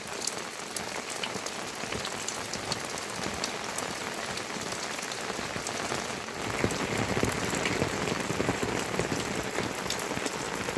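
Steady rain falling, with many separate drops ticking close by. It grows somewhat louder a little past halfway.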